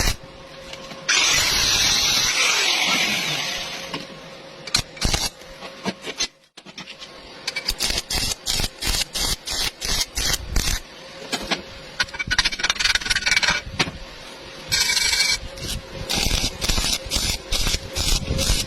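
Metal fabrication work on thin steel tube: a long scraping noise that falls in pitch and dies away over a few seconds, then a run of many short, sharp crackles and clicks with a couple of longer noisy bursts.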